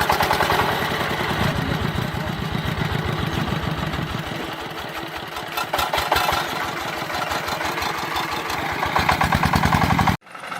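Small engine of a DIY mini tractor running with an even putter that quickens and slows. It breaks off suddenly near the end.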